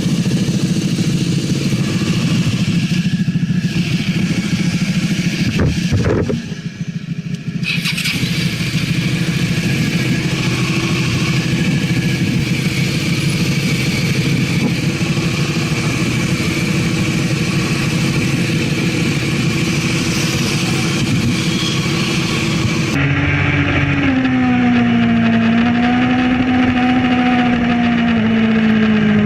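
Ducati Panigale sport motorcycle engine running hard, with a loud rush of noise around it and a brief drop in level about six seconds in. Near the end the sound switches to another sport bike's engine pulling steadily, its pitch slowly rising and dipping.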